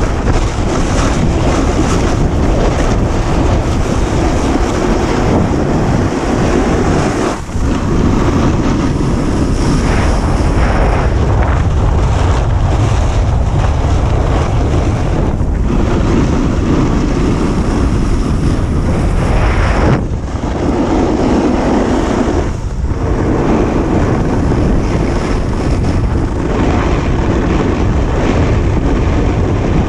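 Wind rushing over a GoPro's microphone while snowboarding downhill, with the board hissing over the snow; the rush dips briefly a few times.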